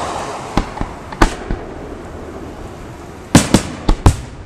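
Aerial fireworks shells bursting overhead: a few sharp bangs in the first second and a half, then a quicker, louder run of four bangs near the end.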